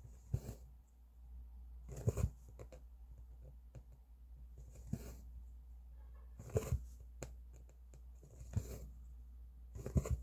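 Cross-stitch thread being drawn through fabric: a short rasping swish about every two seconds, six in all, with small needle clicks between them. A low steady hum runs underneath.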